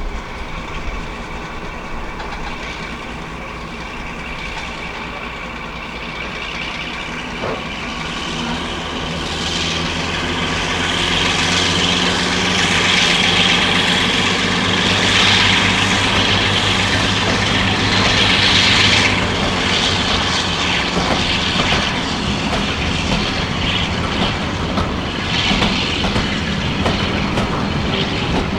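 A diesel-hydraulic locomotive hauling a train past, its engines running with a steady drone that grows louder to a peak in the middle, then eases off as the wheels rattle over the rail joints.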